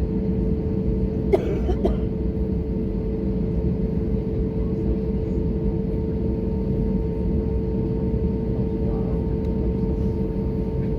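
Airbus A320neo cabin noise: a steady rumble of engines and airflow with a steady hum. About a second and a half in, a passenger gives a short cough.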